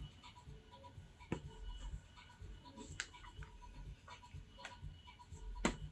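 A few faint, sharp clicks and light taps, about four spread over several seconds, over a low steady background hum.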